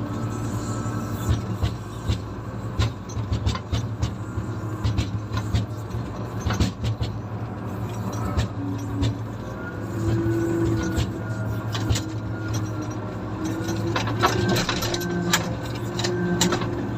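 Komatsu motor grader's diesel engine running steadily under work, with frequent short clicks and rattles over it.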